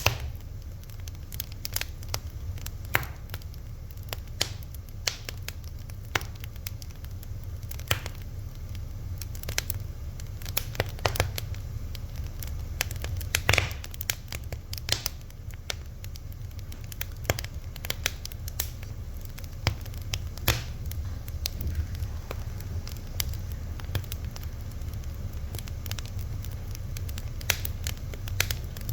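Fire crackling, with irregular sharp pops and snaps, some louder than others, over a steady low rumble.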